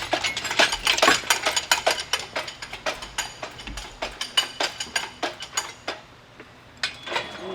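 Irregular run of sharp metallic clicks and clinks from hand tools working on a car, thinning out near the end.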